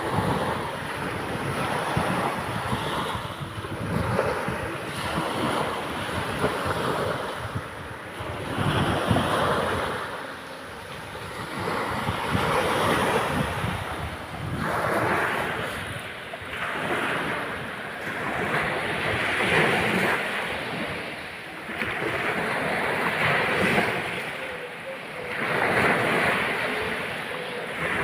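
Sea waves breaking and washing up on a sandy beach, the surf swelling and falling in repeated surges every few seconds.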